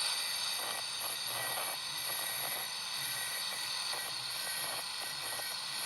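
Power cutter of the angle-grinder type running steadily with a high whine, cutting through links of a steel drive chain.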